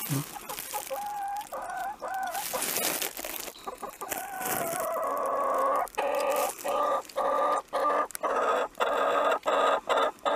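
Hens clucking in a coop, then from about halfway on one hen gives a loud, fast run of repeated squawking calls, two to three a second. The run is her scolding.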